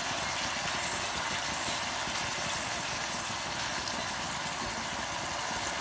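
Chicken and onions frying in hot oil in a pan, a steady sizzling hiss.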